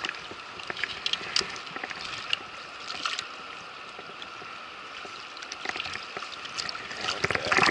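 Steady rush of a fast mountain river's pocket water, with scattered short splashes and ticks close by that grow louder and busier near the end.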